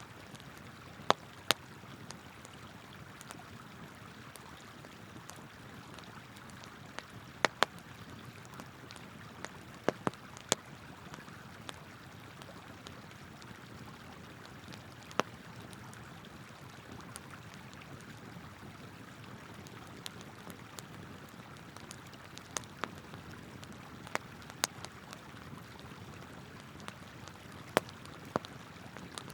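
Campfire wood crackling, with sharp irregular pops over the steady rush of a flowing river.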